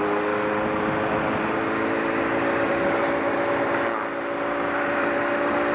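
Motorcycle engine running at a steady cruise, its note holding level and climbing slightly in pitch, under a constant rush of wind noise.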